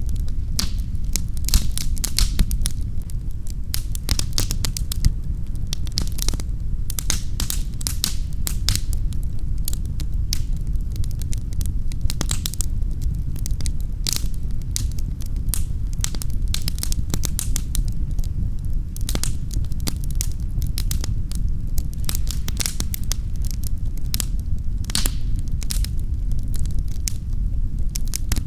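Wood fire in a fireplace crackling, with frequent irregular pops and snaps over a steady low rumble.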